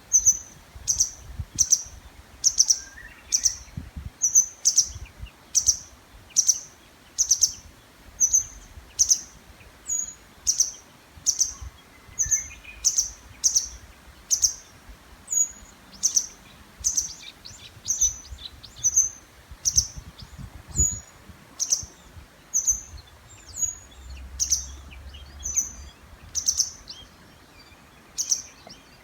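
A bird repeatedly giving a short, sharp, high-pitched call, about once a second and very regular, as in a breeding-season calling bout.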